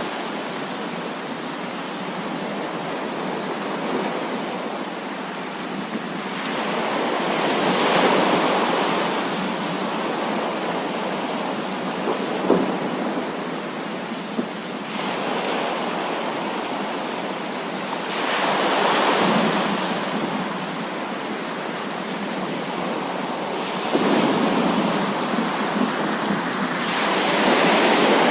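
Heavy thunderstorm: steady downpour of rain that swells heavier several times, with thunder and two short sharp cracks about twelve and fourteen seconds in.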